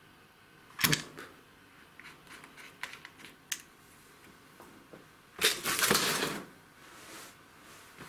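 Metal clicks and light rattles of a chainsaw chain being shifted in a sharpener, with a sharp click a little under a second in and a scraping rustle lasting about a second from about five and a half seconds in.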